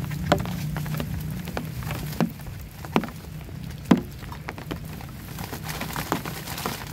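Rain with single heavy drops striking close by: scattered sharp taps, four of them louder than the rest, over a steady low rumble of rainfall.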